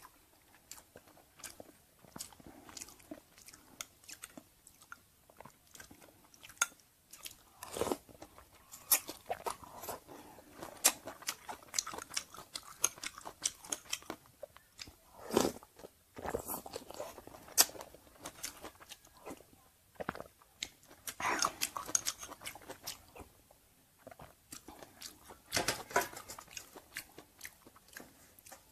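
Close-miked chewing and crunching of food, in irregular bursts, with short spoon clicks and scrapes against a ceramic bowl.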